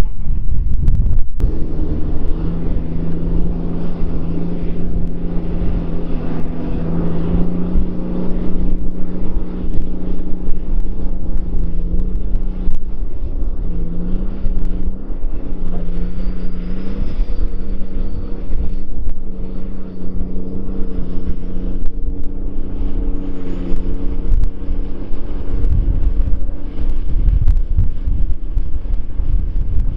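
New Holland 6090 tractor's diesel engine running steadily while pulling a scraper pan. Its pitch dips and recovers a few times around the middle. Wind buffets the microphone throughout.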